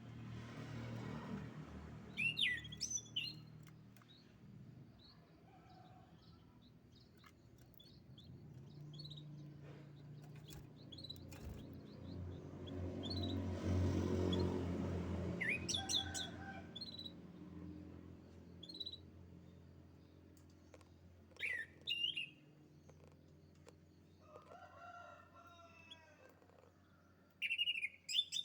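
Domestic canary giving short, sharp chirps in scattered bursts a few seconds apart, over a low rumble that swells twice.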